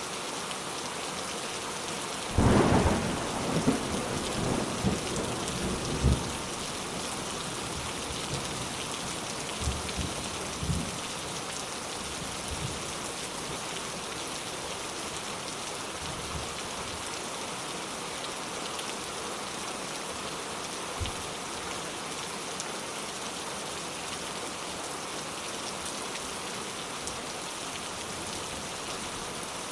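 Steady rain with thunder: a loud thunderclap about two and a half seconds in that rolls on for a few seconds, fainter rumbles around ten seconds in, and one short rumble about two-thirds of the way through.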